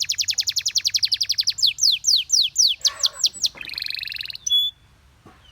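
Gloster canary singing: a fast rolling trill of quick falling notes, slowing to separate falling sweeps about halfway through, then a short buzzy trill and one last note before it stops near the end.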